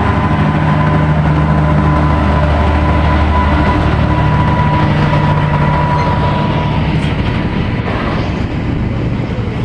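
Class 66 diesel-electric locomotive, with its two-stroke EMD engine running as it moves through the station. There is a steady low engine drone and a steady high whine that stops about seven seconds in, and the sound eases slightly near the end.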